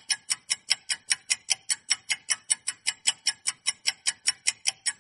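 Rapid, even clock-like ticking, about six ticks a second: a ticking timer sound effect.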